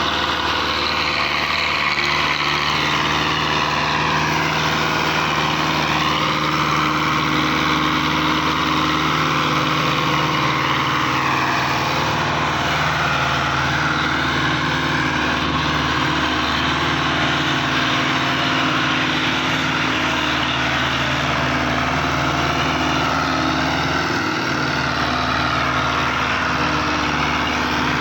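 Belarus tractor's diesel engine running continuously, its note holding steady with slight slow rises and falls in pitch.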